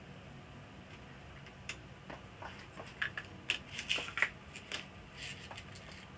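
Scattered light clicks and rustling from parts of an LCD TV being handled during disassembly, busiest in the second half.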